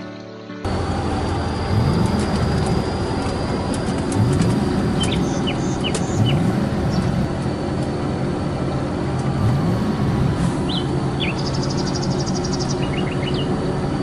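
Steady, loud engine-like vehicle noise whose low pitch rises again and again, about every two seconds, as if revving. Short bird chirps sound over it.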